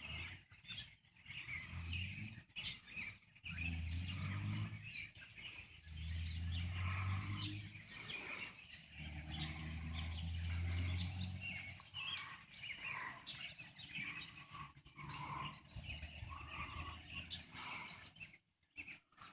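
Many American robins chirping with short overlapping calls throughout. A low hum swells and fades several times beneath them.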